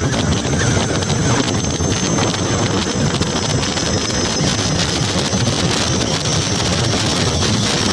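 Ola S1X 3 kW gen 2 electric scooter's hub motor at about 58 km/h, giving a thin, steady high whistle over heavy wind noise on the microphone. The owner takes this whistle for the only noise his motor makes, with no vibration or other sound.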